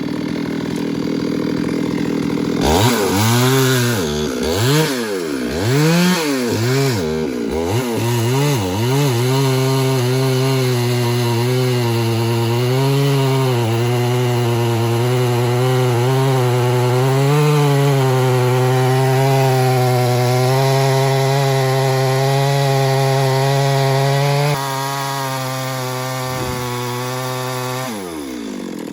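Stihl MS 382 two-stroke chainsaw, steady at first, then revved up and down several times from about three seconds in. It is then held at high revs with the pitch wavering and dipping, as under a cutting load in wood, and drops back toward idle near the end.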